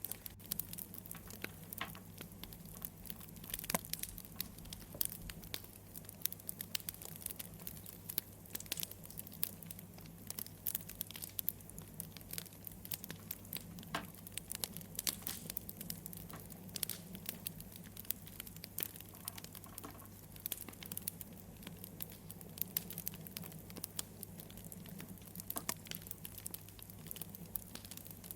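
Wood fire crackling: a constant scatter of small snaps and pops over a steady low rumble.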